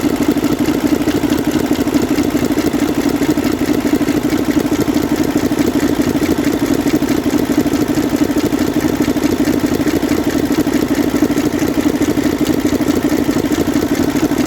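Mercedes-Benz Actros six-cylinder diesel engine idling steadily, with a fast, even clatter of firing pulses. This is the abnormal noise the mechanic traces to cylinder 3: it appears when that cylinder's diesel unit pump wire is connected.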